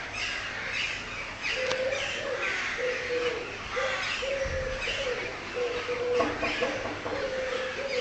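Several birds chirping and twittering together in a busy chorus. From about a second and a half in, a low, steady note repeats roughly once a second beneath the chirps.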